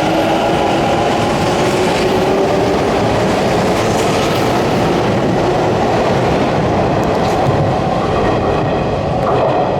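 Hanshin electric train moving along the station platform: a steady motor whine over wheel noise and clacking on the rails.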